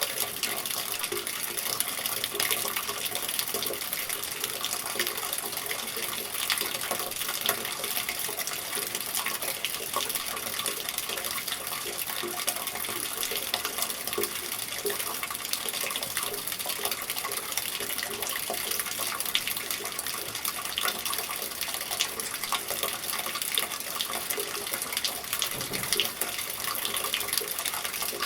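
Steady rain with water running and splashing from a gutter, a dense patter of fine drops over a constant rush.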